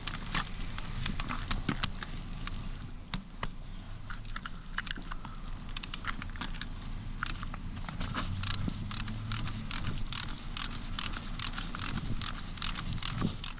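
Hand ratchet wrench clicking as it turns a bolt on a fire hydrant: scattered clicks at first, then a fast, even run of clicks through the second half.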